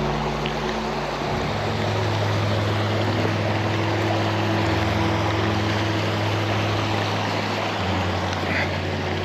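Steady rushing of a waterfall running full after heavy rain, with a low steady hum underneath that shifts in pitch about a second and a half in, near the middle and again near the end.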